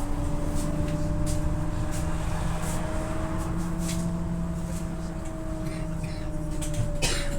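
Scania OmniLink I city bus under way, heard from inside the passenger cabin: a steady drivetrain whine that rises slightly and falls back over low road rumble, with scattered interior rattles and a short louder rattle about seven seconds in.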